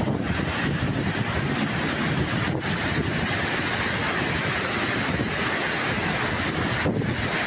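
Steady, loud rushing noise of a violent storm, with wind buffeting the microphone. There are two brief dips, one about two and a half seconds in and one near the end.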